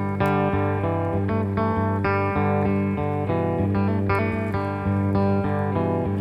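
Instrumental desert-blues guitar music: slow, repeating plucked-string figures over a steady low note.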